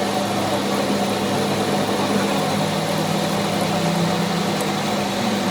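A machine running steadily with an even drone.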